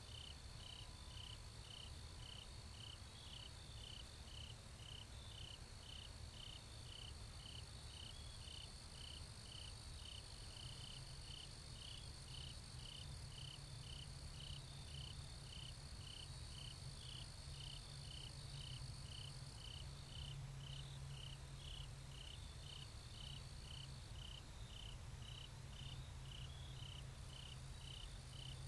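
Crickets chirping in a steady, even rhythm of short high chirps, over a continuous high-pitched insect trill that drops out for a few seconds past the middle.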